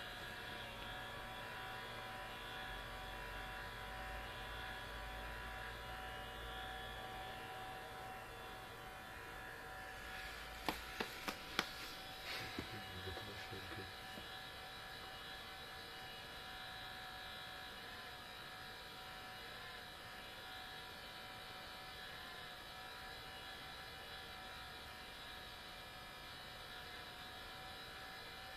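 Sony Vaio CS11S/W laptop's cooling fan running under full load with a strange, loud noise made of several steady tones; the uploader puts it down to a mechanical fault of the fan. About a third of the way through come four sharp clicks, then a few fainter ones.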